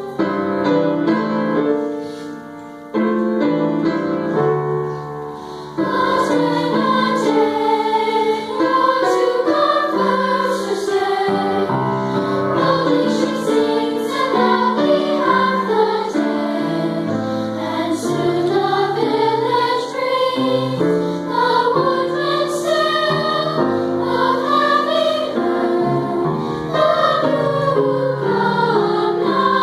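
Choir singing with piano accompaniment: a few seconds of quieter, sparser chords, then the full choir comes in about six seconds in and carries on.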